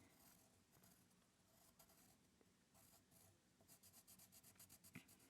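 Faint scratching of drawing strokes on paper, with a quicker run of short strokes about four seconds in.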